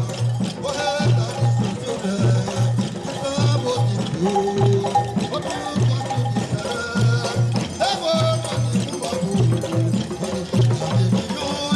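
Bumba-meu-boi folk music: a low drum beats a steady pattern of paired strokes under a bending melody line.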